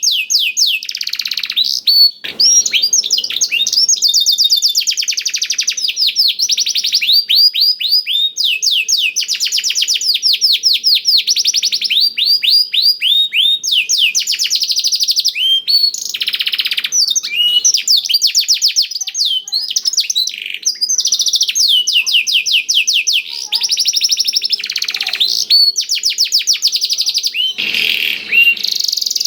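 Domestic canary singing a continuous song of rapid trills, each phrase a fast run of repeated downward-sweeping notes lasting a second or two. The repertoire is tutored with black-throated canary (blackthroat) song.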